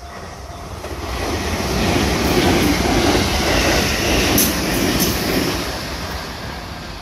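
Six-car JR Kyushu 787 series electric train passing close by at speed. The rush of wheels on rail swells over the first two seconds, holds, then fades as the train moves away. Two sharp ticks come about four and a half and five seconds in.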